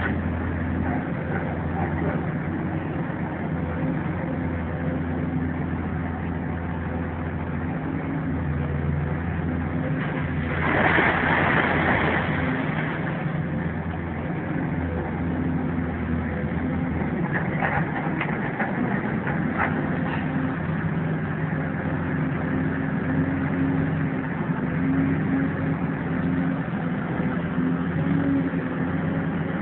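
Engine of demolition machinery running steadily with a low hum. About ten seconds in there is a louder rushing burst lasting a couple of seconds, and later a few sharp clicks or knocks.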